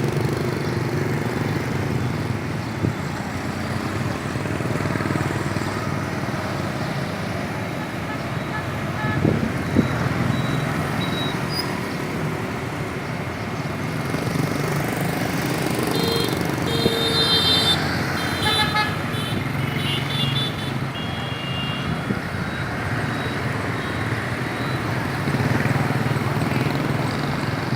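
Street traffic, mostly motorbikes, running as a steady din. A cluster of short horn beeps comes about two-thirds of the way through.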